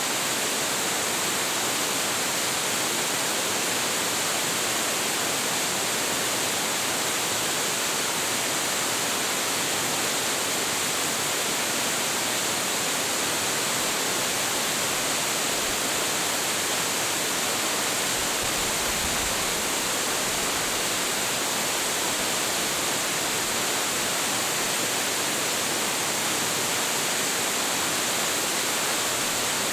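Hiji Ōtaki, a 25.7 m waterfall with heavy flow, pouring into its pool: a steady, unbroken rush of falling water, strongest in its high hiss.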